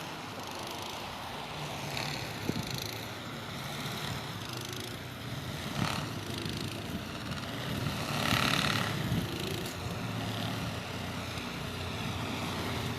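An engine running steadily, with a swell of hiss about eight seconds in.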